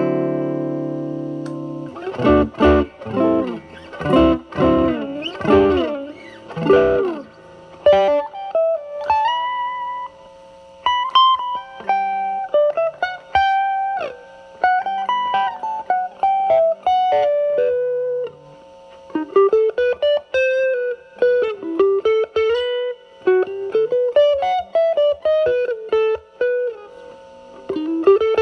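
Electric guitar (Telecaster with single-coil alnico pickups) played through a DIY Mosrite Fuzzrite clone with a 2N2369 silicon transistor, set at fuzz 5, into the drive channel of a Marshall Valvestate amp. A ringing chord comes first, then a few seconds of choppy chords, then a single-note lead line with bends and vibrato.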